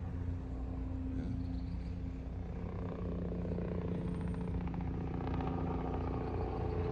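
Steady low hum of a running motor-vehicle engine, with traffic rumble.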